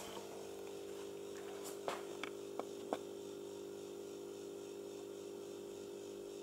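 A faint steady hum with a few light clicks about two to three seconds in.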